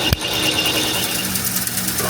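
Farm machinery running with steady mechanical noise, a sharp click about a tenth of a second in, and a low engine hum coming in about a second in.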